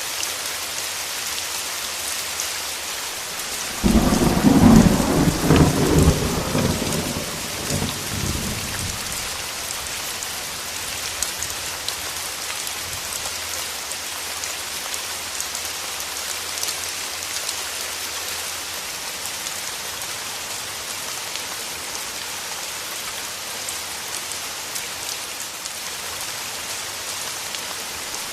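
Steady heavy rain falling on a surface. About four seconds in, a sudden loud clap of thunder rumbles and fades away over several seconds, after which the rain goes on alone.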